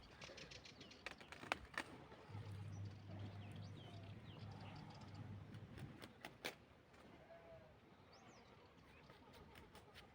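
Faint, scattered footfalls and light clicks on the ground, with faint bird chirps. A low hum comes in for a few seconds in the middle.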